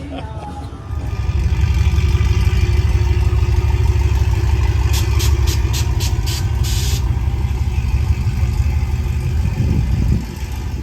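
A vehicle engine running close by, a steady low rumble that comes in about a second in and fades near the end. A quick run of sharp clicks and a short hiss sound midway through.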